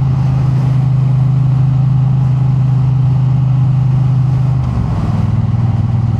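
Triumph Bonneville T100 parallel-twin engine running steadily while the motorcycle cruises at an easy pace. The engine note changes about four and a half seconds in.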